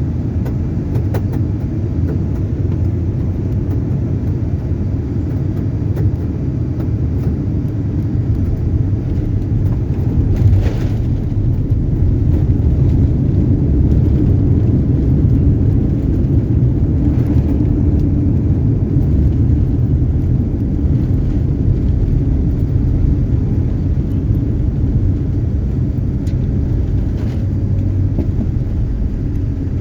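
Airliner cabin noise from a passenger seat: a steady low rumble of engines and airframe, with one brief thump about a third of the way in, after which the rumble grows a little louder.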